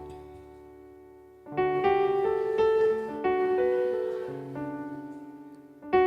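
Piano accompaniment playing slow, sustained chords: a chord dies away, new chords come in about a second and a half in, and the playing pauses briefly near the end before another chord.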